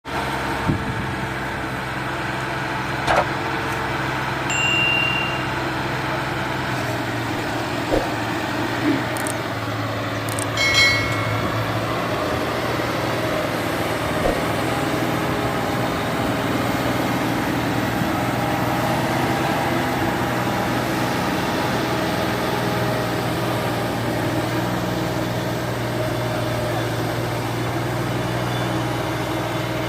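Tractor engine running at a steady low hum, with a few sharp clicks and two short high ringing tones, about five and eleven seconds in.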